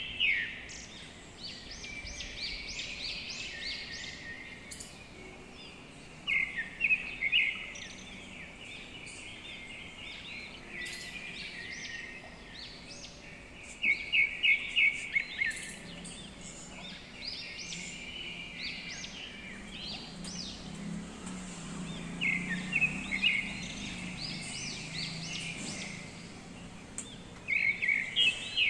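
A bird calling in short bursts of quick, high chirps every six to eight seconds, over steady outdoor background noise. A faint low hum comes in during the second half.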